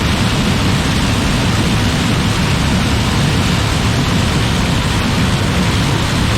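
A combine harvester running steadily, a loud even rumble and hiss with no distinct tones or breaks.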